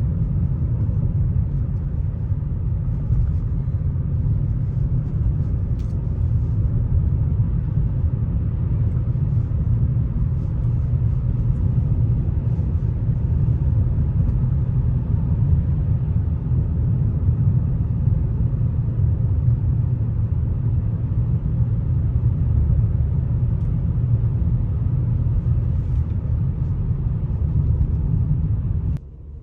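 A 2004 Lexus GS300 running, with a steady low rumble of engine and road noise as the car is driven. The sound drops off abruptly just before the end.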